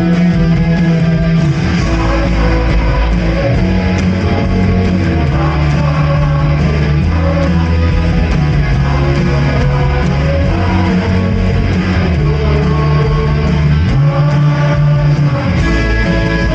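Live worship band playing a praise song, guitar prominent over held chords and low bass notes that change every few seconds.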